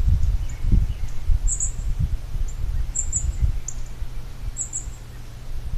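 A small bird calling with short, high chirps, mostly in quick pairs, every second and a half or so, over a steady low rumble on the microphone.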